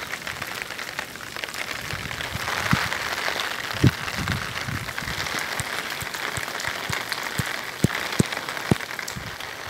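Light rain pattering steadily on a flooded street and its standing water, with fine scattered drip ticks and a few short, soft knocks about four seconds in and again near the end.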